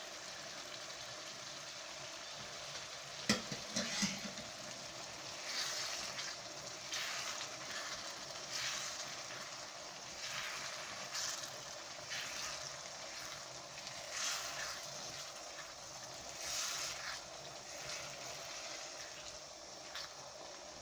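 Lentils frying in a pan of tomato and spices with a steady sizzle. A sharp knock comes about three seconds in. From there on come regular scraping strokes of a silicone spatula stirring the pan, about one every second and a half.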